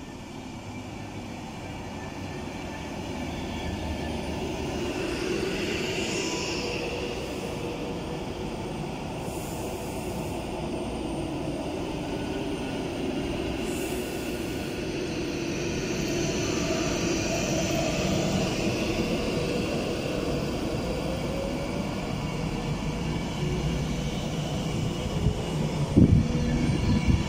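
Avanti West Coast Class 390 Pendolino electric train approaching and running past along the platform, its rumble and wheel-on-rail noise growing steadily louder as it nears. A few sharp thumps break through near the end.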